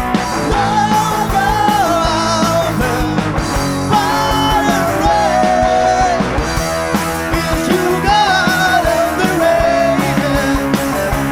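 Rock band playing live, a singer's voice carrying the melody over the full band.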